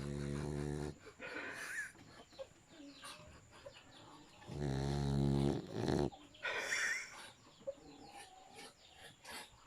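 Dog snoring in its sleep. Two low buzzing snores, each about a second long, come about four and a half seconds apart: one at the start and one about halfway through. Each is followed by a softer, higher breathy sound.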